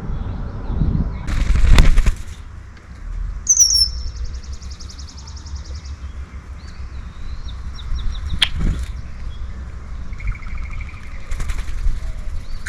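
Wings flapping loudly as a bird flies at the feeder about a second and a half in, with a shorter flutter near the end. Between them songbirds sing: a high, fast trill lasting a couple of seconds, then a lower trill. A low, steady wind rumble runs underneath.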